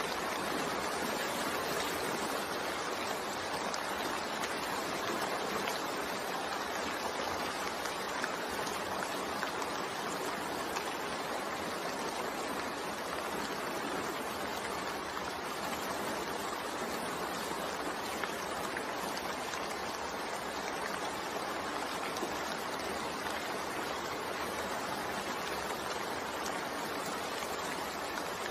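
Steady rain falling, a continuous even hiss of rain.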